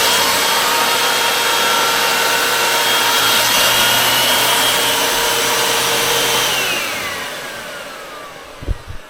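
Vacuum cleaner running steadily, then switched off: about two-thirds of the way through its motor whine falls in pitch and fades as it spins down. Two short knocks come near the end.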